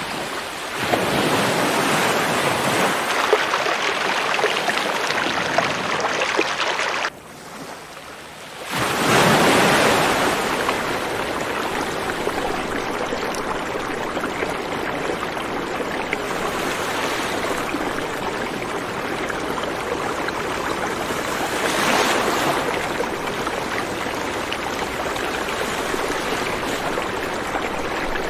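River water flowing and rushing in a steady hiss. About seven seconds in it drops much quieter for a second or two, then comes back louder.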